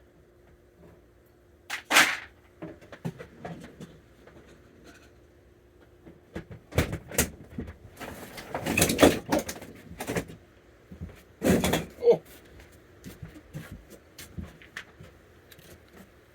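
Indoor handling noises: a door and other things knocked and clattered, with a few louder thumps spread through and small clicks between them.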